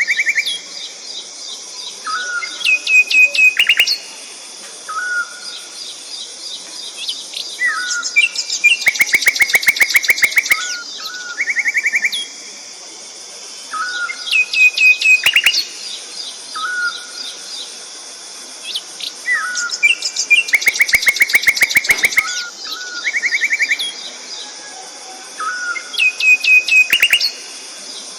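Songbird singing: short chirps and fast rattling trills, the same phrase coming back about every six seconds over a steady high hiss.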